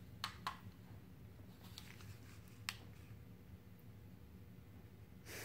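Faint, steady low hum of a Homestead Alantis ceiling fan coasting through a long spin-down after being switched off, with a few light clicks.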